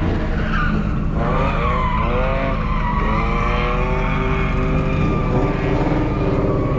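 A drift car's engine revving up and down while its tyres skid across the track, with the engine pitch rising and falling several times in the first few seconds before steadying.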